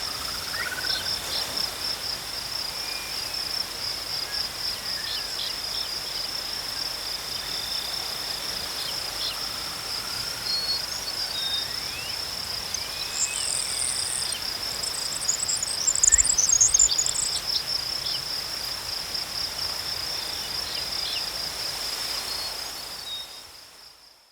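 Crickets chirping in a steady, fast-pulsing high trill, with a second fainter trill beneath it and a few higher chirps around the middle. The sound fades out near the end.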